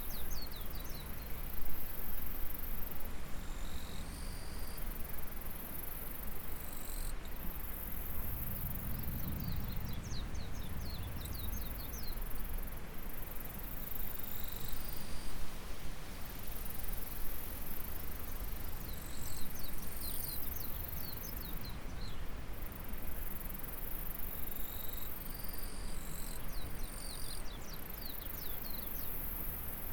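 Insects shrilling in high, buzzing phrases a few seconds long that start and stop again and again, with quick series of bird chirps several times, over a steady background rush of flowing water.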